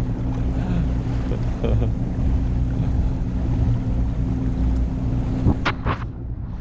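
Motorboat engine running at a steady pitch, with wind and water noise over it. A few sharp knocks come near the end, after which the engine sound drops away.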